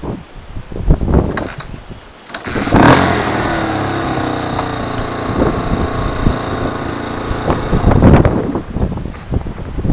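Honda XR250R's air-cooled single-cylinder four-stroke engine catching with a sudden burst about two and a half seconds in, after a few knocks, then running steadily, its speed settling down toward idle.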